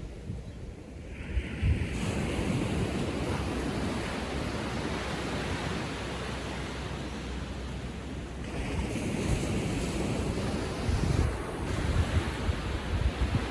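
Small ocean waves breaking and washing up the beach, with a surge of surf about a second in and another past the middle. Wind buffets the microphone with low rumbles near the end.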